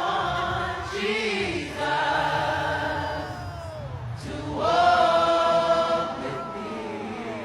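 Several voices singing long held notes together, each note sliding down in pitch as it ends, over a steady low rumble.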